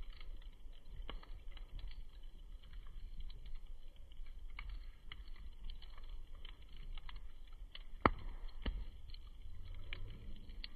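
Wood campfire crackling: irregular small pops and ticks, with a louder snap about eight seconds in.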